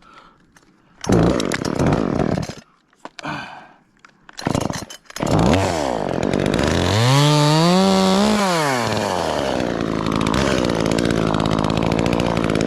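Chainsaw starting up after a few short scraping noises, then revving up for about a second and a half and dropping back to a steady idle.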